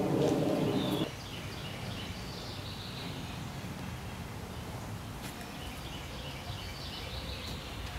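Faint birds chirping in short runs of high notes over a steady outdoor background noise; a louder, fuller sound cuts off abruptly about a second in.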